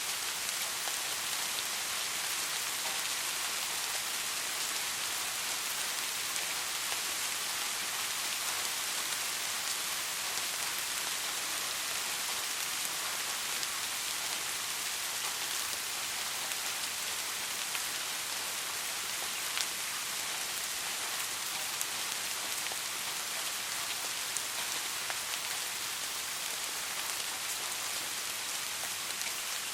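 Steady soft rain falling, an even hiss of many drops with a few slightly louder single drops ticking now and then.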